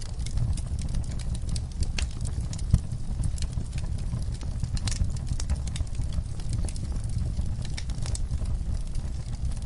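Wood fire burning in a fireplace: a steady low rumble of flames with frequent irregular crackles and snaps from the burning logs, one sharper pop a little under three seconds in.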